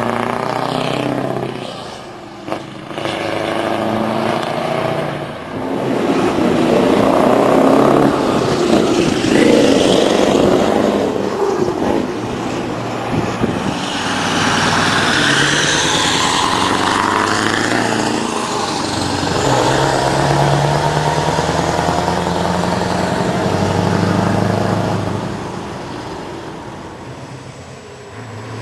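Scania V8 truck engine pulling away, its pitch rising and falling as it revs and changes gear. It grows loudest a few seconds in and fades away near the end.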